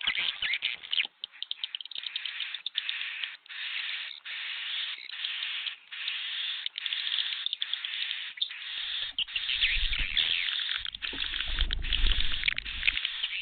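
Swiftlets twittering and chirping in a dense flock chorus, the call sound played to lure swiftlets into a swiftlet house. The chirping comes in bursts broken by short pauses, and a low rumble runs under it for a few seconds past the middle.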